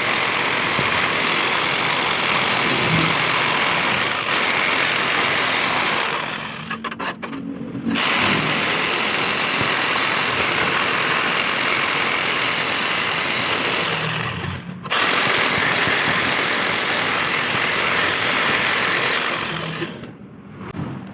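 Electric jigsaw cutting iron: a steady motor-and-blade noise that stops briefly twice and cuts off near the end.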